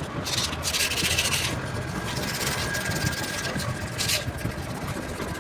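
Rubbing, scrubbing noise in several uneven bursts, the longest about a second, from cleaning the cylinder bores of a Tata 1613's Cummins diesel engine.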